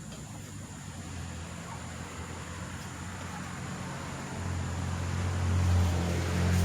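A low, steady engine or motor hum that grows louder about two-thirds of the way in.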